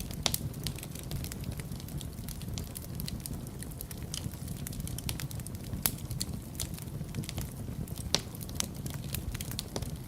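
Wood fire crackling in a fireplace: a steady low rumble of flames under frequent irregular sharp crackles and pops, a few louder pops standing out, one just after the start, one about six seconds in and one about eight seconds in.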